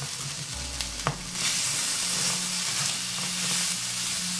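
Diced chicken breast and bacon sizzling in oil in a frying pan while being stirred with a wooden spoon. The sizzling grows louder about a second and a half in, with a light knock just before.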